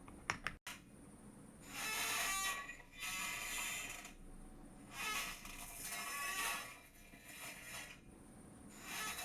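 A chair creaking in a series of drawn-out squeaks, each lasting about a second, with a few sharp clicks just under a second in.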